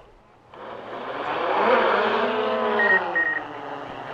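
A motor hum, with a rush of noise, swells up from near quiet. Two short electronic beeps come a little past the middle.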